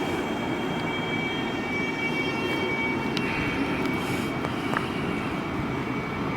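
Train moving through the station: steady rushing rail noise with thin, high whining tones over it and a few faint clicks.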